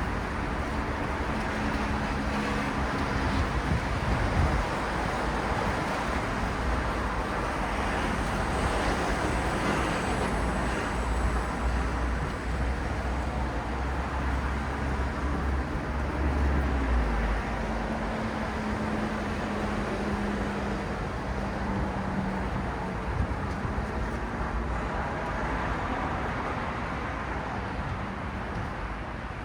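Steady city road traffic at night: a continuous wash of tyre and engine noise from passing vehicles, with the hum of heavier engines coming and going.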